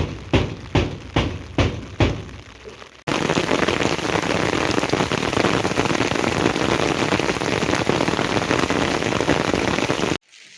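A few seconds of rhythmic thuds, about two a second. Then heavy, steady rain starts suddenly and stops suddenly near the end.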